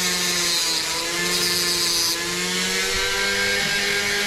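Dremel rotary tool running at high speed with its cutting wheel grinding through a fibreglass fishing rod: a steady whine, with a brighter cutting hiss over the first two seconds.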